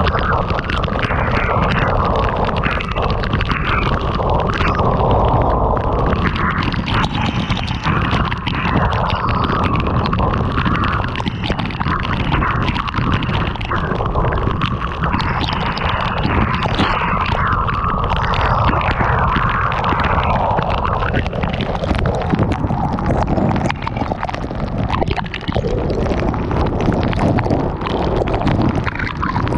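Heavy rain pelting a car on the move, with wind buffeting the microphone: a loud, dense rush with a strong low rumble underneath.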